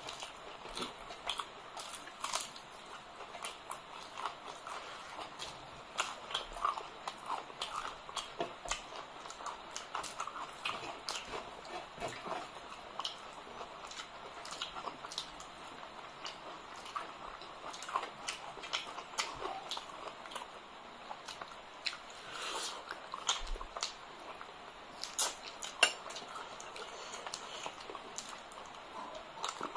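Close-miked chewing and wet lip-smacking of two people eating rice and curry with their hands, with squelching as their fingers mix the rice. The sound is a stream of irregular sharp smacks and clicks.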